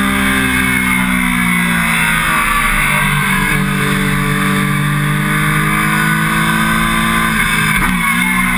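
Triumph Daytona 675's inline three-cylinder engine running hard at track speed, heard from the tank. The pitch sags a little, then holds steady, and dips briefly and comes back near the end.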